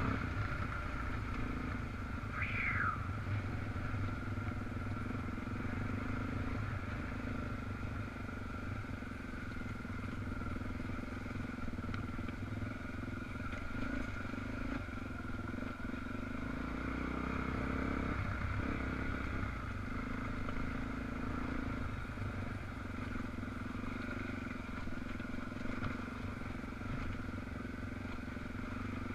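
Dual-sport motorcycle engine running steadily while riding, with a brief falling squeal about two and a half seconds in.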